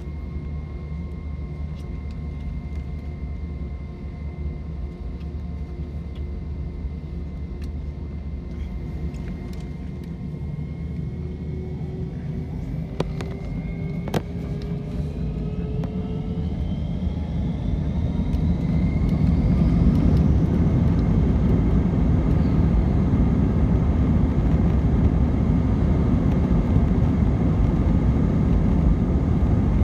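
Airbus A319's IAE V2500 jet engines heard from inside the cabin, spooling up. Their whine rises in pitch from about a third of the way in, and the rumble grows much louder until about two-thirds of the way through, then holds steady at high power, as when takeoff thrust is set. Two sharp clicks come during the rise.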